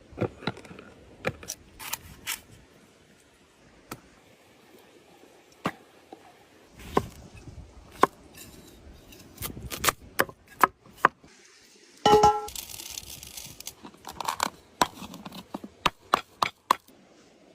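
Cooking-prep handling sounds: irregular sharp knocks and clicks of utensils and food being handled, with one ringing metallic clink about twelve seconds in, followed by a short hiss.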